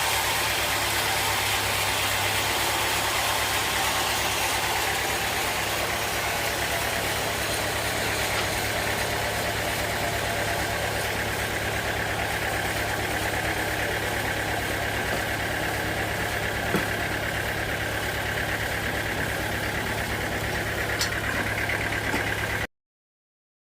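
Engine running steadily at an even speed, with a couple of faint ticks, then cut off abruptly near the end.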